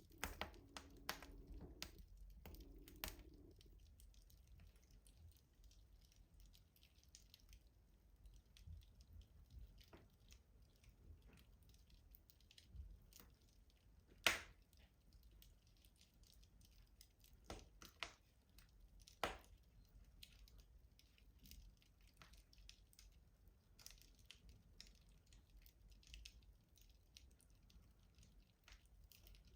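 Wood fire crackling in a rustic stove: scattered soft crackles and pops, with one sharp pop about halfway through and a few louder pops a few seconds after it.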